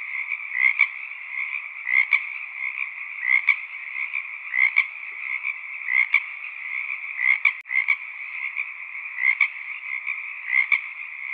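Frog chorus: a steady mass of calling frogs, with a louder two-note call repeating a little more than once a second. There is a momentary break in the sound about seven and a half seconds in.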